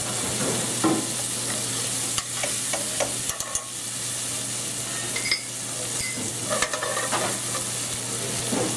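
Chicken livers, onions and borlotti beans sizzling in a hot pan, with a utensil stirring and scraping against the pan in short, scattered strokes.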